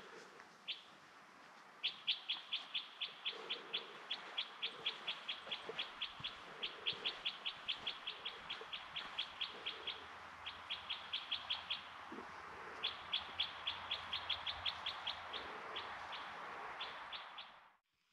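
A small bird calling in quick runs of short, high chirps, about five a second, with brief pauses between runs, over a faint steady hiss.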